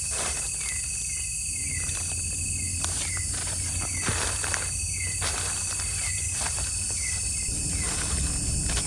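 Night-time forest insect chorus: a steady high buzz of crickets with short chirping notes repeating every second or so, and scattered light clicks.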